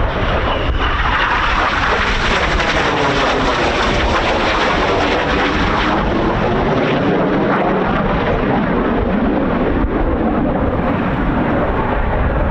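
Red Arrows BAE Hawk T1 jets, with Adour turbofan engines, passing by in a loud, steady jet roar. Its tone sweeps down and back up as they go over, and wind buffets the microphone.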